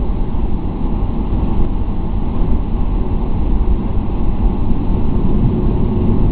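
Airliner cabin noise during takeoff: the jet engines and rushing air make a loud, steady, deep rumble that holds level without rising or falling.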